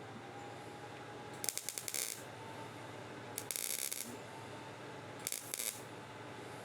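Welder laying three short tack welds to close a small hole in a steel fender, each a crackling burst of about half a second, a couple of seconds apart, over a steady shop hum.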